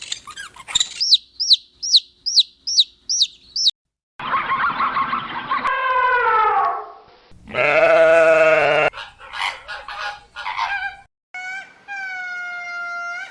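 A series of separate animal calls cut one after another: first a run of about eight quick, high, repeated bird chirps, then several longer drawn-out pitched animal calls, one falling in pitch, with short silent gaps between them.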